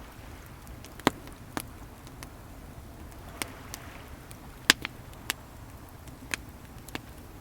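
Wood bonfire crackling, with about nine sharp pops scattered irregularly, the loudest a second in and about two-thirds of the way through. Under it runs a steady low wash of ocean waves.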